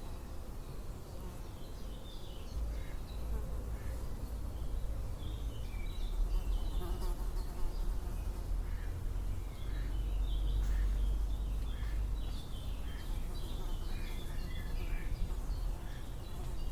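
Flying insects buzzing outdoors, like bees or flies passing close, over a steady low rumble, with short high chirps scattered through.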